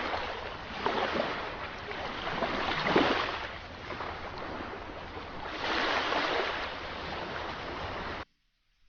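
Sea waves washing and breaking, surging about one, three and six seconds in, loudest near three seconds, then cutting off suddenly to near silence near the end.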